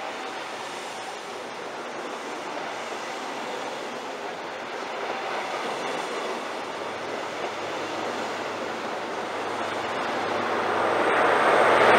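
An InterCity 125 High Speed Train with Class 43 diesel power cars approaching on the main line at speed. Its rumble grows steadily louder and swells sharply near the end, with a thin high whistle coming in.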